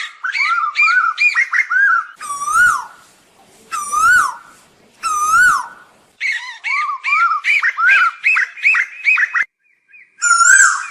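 Asian koel calling: fast runs of short, rising-and-falling whistled notes, broken in the middle by three slower, separate calls about a second and a half apart, then another fast run and a last call near the end.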